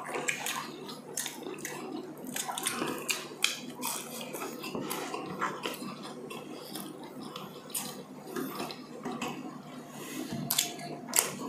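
Close-up mukbang eating sounds: chewing and mouth clicks that come irregularly several times a second, with occasional light clinks of plates and cutlery.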